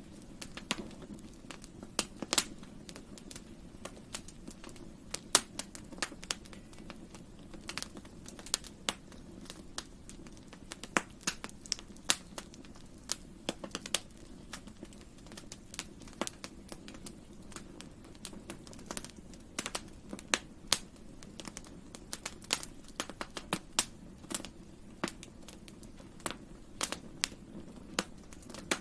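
Wood campfire crackling: irregular sharp pops and snaps of burning wood over a steady low background.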